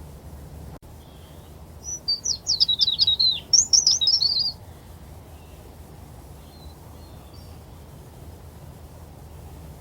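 A bird singing a quick run of high chirps and trills lasting a couple of seconds, followed a little later by a few faint calls, over a steady low rumble.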